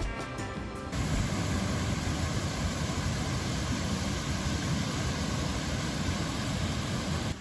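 Background music that cuts off about a second in, followed by a steady rushing noise with a strong low rumble.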